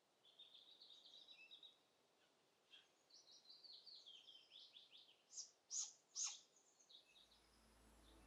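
Faint songbird song: quick high chirping trills, then three louder sharp falling notes a little past halfway. Soft ambient music fades in near the end.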